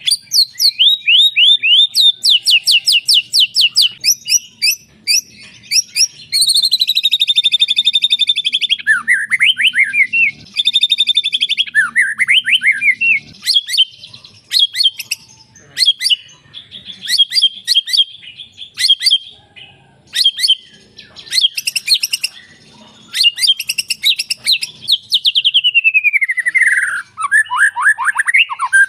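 Songbird song of the kind used to train white-rumped shamas: loud, fast trills and trains of sharp repeated notes, changing phrase every few seconds, with a long falling sweep near the end.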